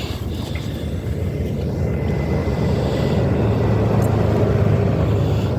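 Strong blizzard wind buffeting the microphone, a steady low rumble that grows a little louder partway through.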